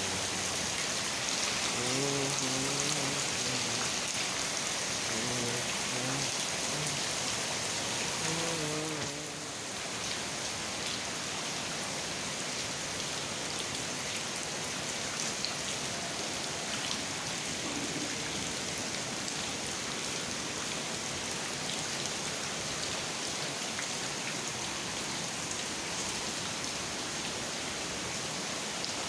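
Steady heavy rain falling and pattering on surfaces. A faint voice, singing or chanting, is heard under it for about the first nine seconds.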